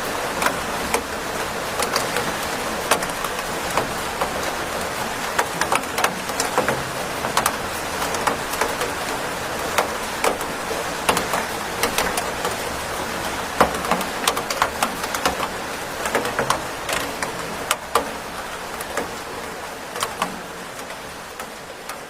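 Steady rain falling, a constant hiss with many close, sharp drop impacts at irregular intervals; it fades slightly at the very end.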